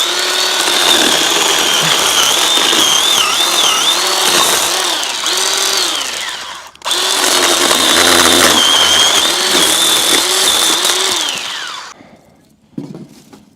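Battery-powered blower running, blowing air into a campfire to fan the coals: a loud rush of air with a high whine that wavers in pitch. It stops briefly about seven seconds in, runs again, and winds down about twelve seconds in.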